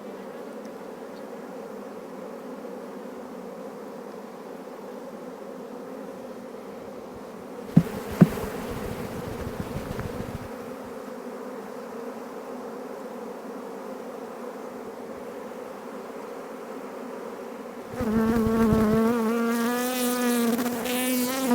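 Honeybees buzzing at an open hive, a steady hum, with two sharp knocks about eight seconds in. Near the end the buzzing gets louder and wavers in pitch as bees fly close.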